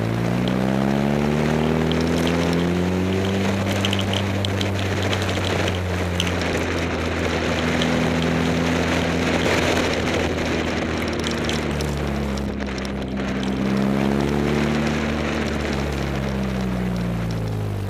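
Caterham Super Seven's engine pulling away, rising in pitch over the first couple of seconds, then running at a steady cruise with wind and road noise. Its pitch falls as it slows near the end.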